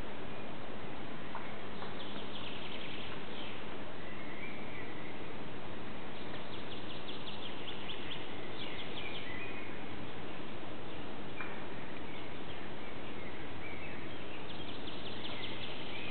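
A songbird singing in three spells of quick high, trilled phrases over a steady background hiss.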